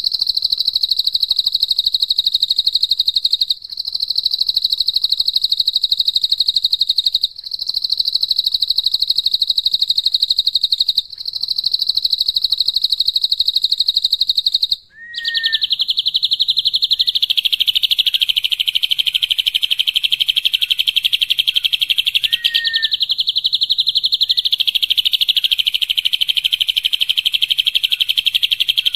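Songbird singing a loud, rapid, high trill of fast repeated notes, used as masteran 'tembakan' (rapid-fire) song for tutoring competition birds. It comes first in four bouts of about three and a half seconds with short breaks, then runs on as one long trill pitched a little lower after about fifteen seconds, with a few short lower chirps.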